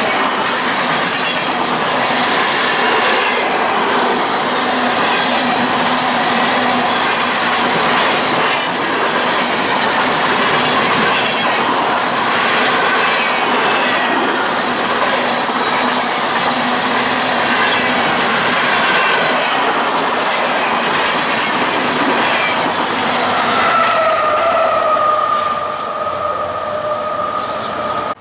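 A train's cars rolling past close by, wheels clattering on the rails with wavering high wheel squeal. Near the end the loudness drops a little and a steady tone gliding slightly downward takes over until the sound cuts off.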